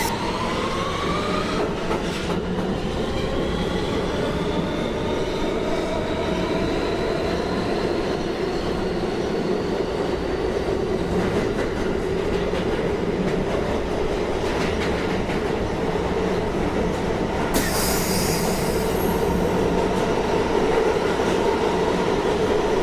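Subway train accelerating between stations. The traction-motor whine climbs in pitch over the first several seconds, then settles into a steady running rumble with wheel and track noise. A brief high hiss or squeal comes about three-quarters of the way through.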